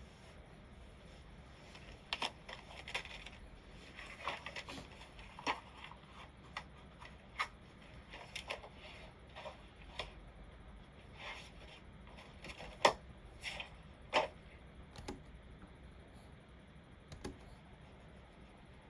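Computer keyboard keys and mouse buttons clicking in scattered, irregular taps with short pauses, the loudest few clicks coming just past the middle.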